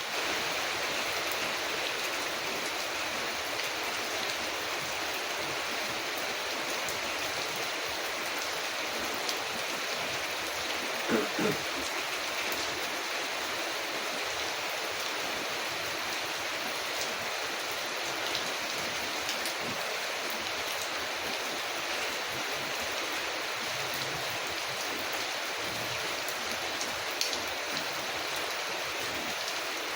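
Steady rain falling, a constant even hiss, with a few sharp crackles from a wood fire; the loudest is a double pop about eleven seconds in.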